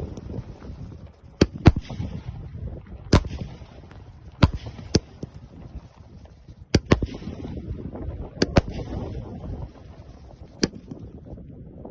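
Aerial fireworks (sky shots) going off: about ten sharp bangs at uneven intervals, some in quick pairs, over a continuous low rumble and crackle of other fireworks.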